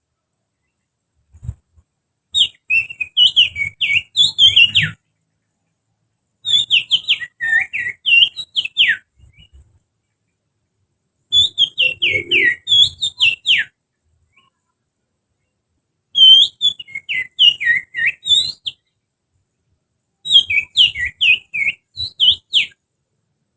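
Human finger whistling, blown through the little finger, imitating the song of an oriental magpie-robin (kacer). It comes in five phrases of fast, warbling whistled notes that slide up and down, each phrase about two to three seconds long with short pauses between.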